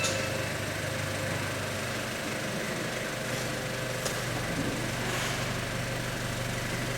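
A machine running steadily, a low hum under an even hiss, with one faint click about four seconds in.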